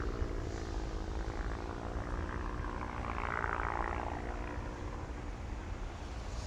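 A steady engine hum, with a hiss that swells and fades about halfway through.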